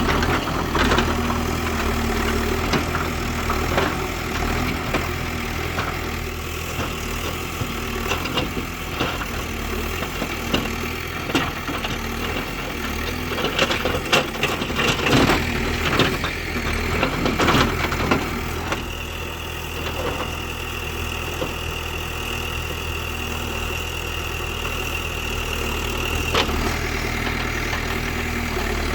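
Diesel engine of a JCB 5CX backhoe loader running steadily, with scattered clanks and knocks from about 8 to 18 seconds in. A steady high whine follows, from about 19 to 26 seconds in.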